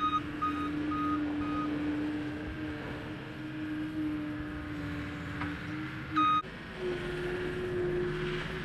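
Skid steer engine running steadily while its reverse alarm beeps about twice a second, stopping after the first second or so. A single loud beep comes about six seconds in, and the engine then picks up speed.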